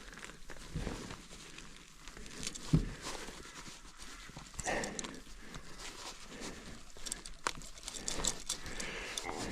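Scattered knocks and thumps as a freshly landed Murray cod is handled in a boat, with a sharp knock about three seconds in, and a few heavy breaths.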